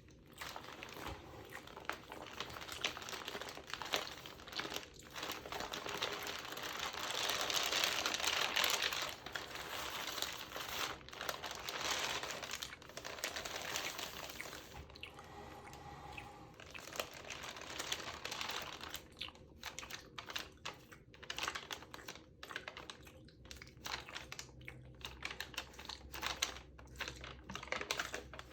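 Close-up crinkling and rustling of a textured glossy magazine page, loudest in a long crinkle about eight seconds in. Through the second half it turns into a rapid run of short clicks, with wet mouth clicks and pops mixed in.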